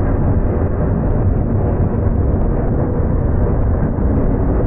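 Loud, steady low rumble of a freight train's cars rolling by close at hand.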